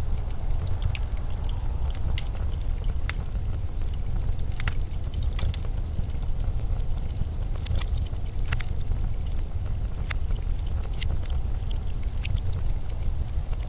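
Blizzard wind blowing steadily with a deep rumble and a hiss, with scattered sharp crackles.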